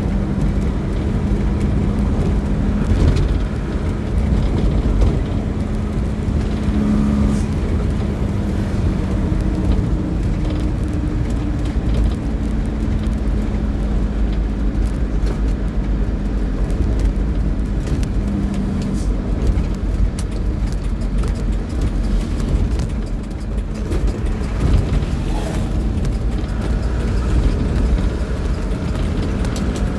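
A motor vehicle running steadily: a continuous low rumble with a humming tone that drifts slightly in pitch, and a few light knocks.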